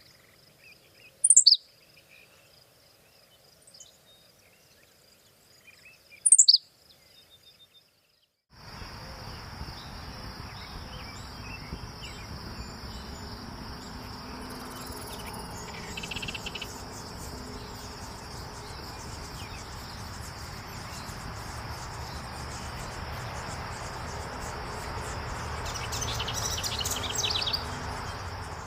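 Two loud, sharp bird calls sweeping downward in pitch, about five seconds apart, over a faint steady insect trill. Then a louder outdoor background takes over, with a steady high insect trill, scattered bird chirps and a quick run of chirps near the end.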